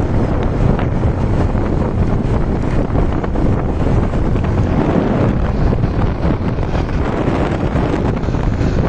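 Steady rush of wind buffeting the microphone during a motorbike ride, with the motorbike's engine running underneath.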